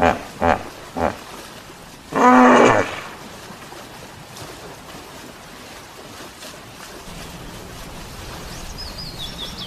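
Hippopotamus calling: three short grunts in the first second, then one loud, longer honk about two seconds in. Steady outdoor background follows, with birds chirping near the end.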